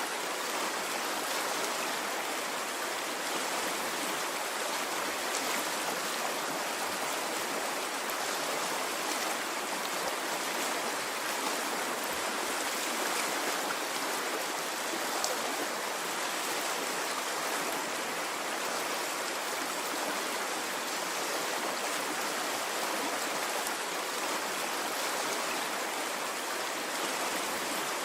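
Water stream flowing in a steady rush, with no rise and fall of waves.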